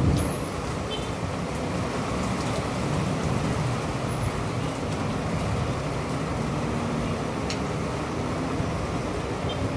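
Steady low rumble of city traffic in the rain, with the tail of a thunder roll dying away in the first second.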